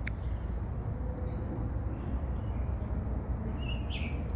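Steady low background rumble and hiss, with two faint short chirps, one just after the start and one near the end.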